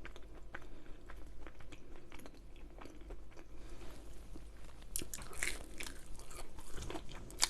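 Close-miked chewing of a mouthful of food: irregular soft, wet clicks and small crunches, a little louder about five seconds in.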